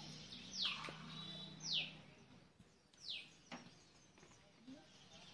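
A bird calling outdoors with three short, sharp whistles that each slide downward, about a second apart. A low steady hum runs under the first two calls, and there is a single click later on.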